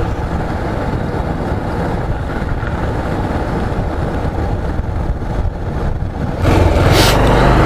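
Motorcycle running during a ride, heard as a steady low rumble with wind noise on the microphone, growing louder about six and a half seconds in.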